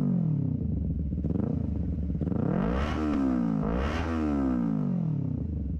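Honda CBR250RR's parallel-twin engine through a Scorpion RP1GP full-system exhaust, revved twice with quick throttle blips, each rev rising sharply and falling back, the first settling from an earlier rev at the start.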